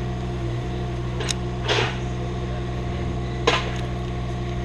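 An engine running steadily at idle with an even hum, with a few short scrapes or rustles over it, one about a second in, another just after, and a third past three seconds.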